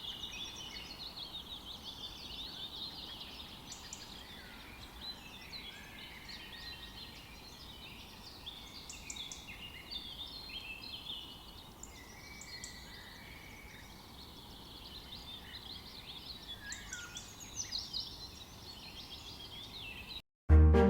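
A dense chorus of many birds calling and chirping over one another, high-pitched, over a low background hiss. It cuts off suddenly near the end and music begins.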